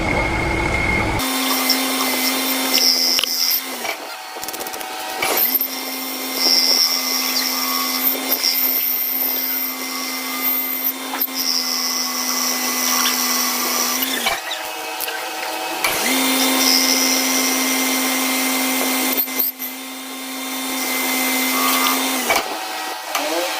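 Lathe running while turning a metal shaft: a steady hum with a higher whine from the cut. It stops and restarts twice.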